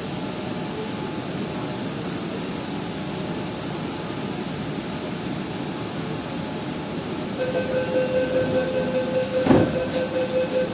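Steady hum of a metro train interior at a station. About seven seconds in, a rapid electronic beeping starts, about three pulses a second, typical of a metro door-closing warning. A single sharp knock comes a couple of seconds later.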